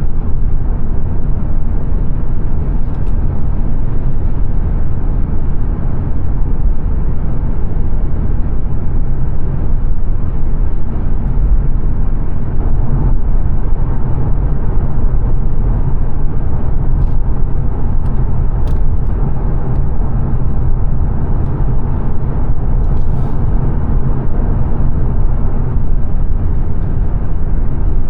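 Steady in-cabin road and engine noise of a 2022 Mazda 3 saloon cruising at motorway speed, mostly a deep, even rumble.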